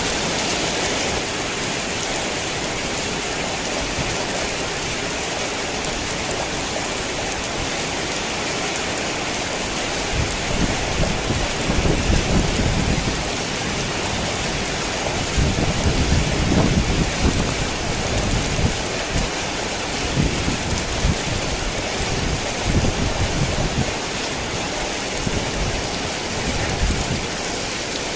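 Heavy rain falling in a steady hiss. About ten seconds in, low rolling rumbles of thunder join it and keep swelling and fading, loudest near the middle.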